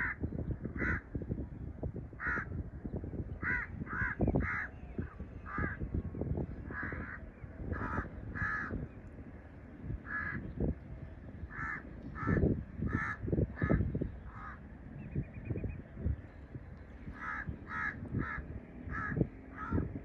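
Birds giving short, harsh, crow-like caws, one about every second in an uneven series, over a low, uneven rumble.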